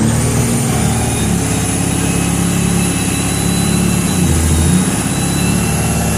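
Heavy truck engine running at a steady, low speed, its pitch shifting slightly now and then, with a thin high whine above it.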